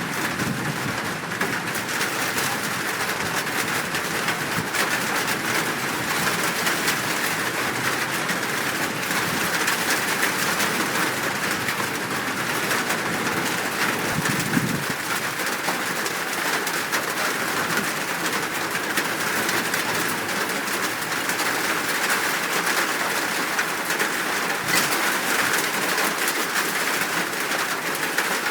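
Birds calling over a steady hiss of rain, with a few low calls standing out, one near the start and one about halfway through.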